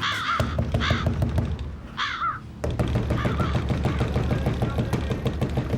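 Crows cawing harshly about four times, the last one fainter, over a dense, rapid low rattle.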